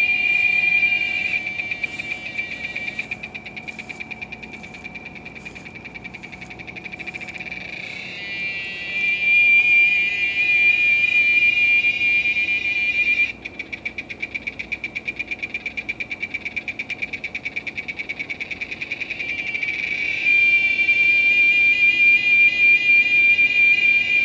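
Giant cicada (Quesada gigas) singing: a loud, shrill, steady whine that turns into a fast pulsing for several seconds around the middle, then returns to a steady tone near the end.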